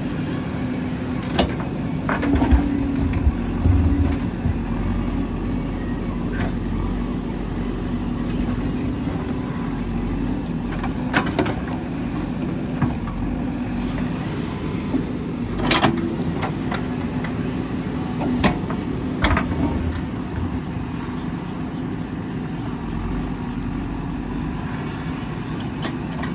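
JCB 3DX backhoe loader's diesel engine running steadily under work, with a few sharp metallic knocks at irregular intervals from the digging and loading gear.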